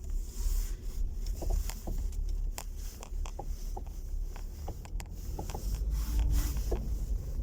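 Car driving over small bumps: a steady low road rumble inside the cabin, with scattered light clicks and knocks from the front end. These are the elusive front-suspension knock, the same clicks that can be felt by hand on the lever.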